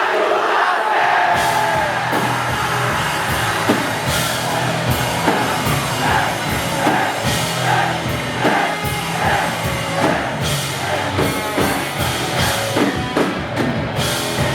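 Live rock band playing, with drums and bass coming in about a second and a half in and keeping a steady beat.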